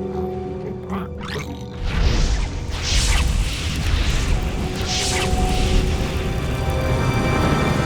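Dramatic background score with held notes, joined about two seconds in by a heavy low rumble and two crashing, whooshing sound effects.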